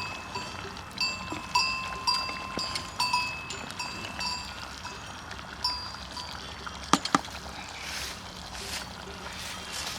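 A small metal bell clanking irregularly, one or two ringing strikes a second, fading out over the first six seconds. About seven seconds in come two sharp clicks.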